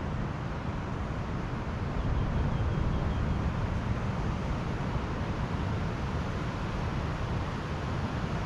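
Pacific Ocean surf washing onto the beach as a steady noise, with wind on the microphone adding a low rumble; it swells a little about two seconds in.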